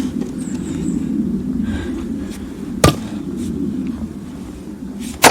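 Axe striking firewood logs twice, about two and a half seconds apart, each a sharp crack, over a steady low hum.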